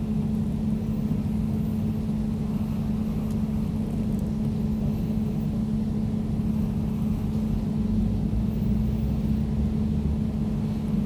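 Air conditioner running steadily: a constant low hum over a deeper rumble.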